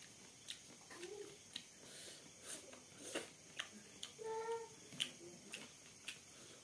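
Chewing and wet mouth clicks while eating rice by hand, in irregular short ticks. A brief pitched sound about four seconds in.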